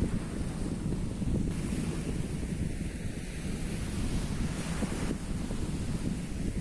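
Wind buffeting the microphone in a rough low rumble, with the wash of sea surf behind it.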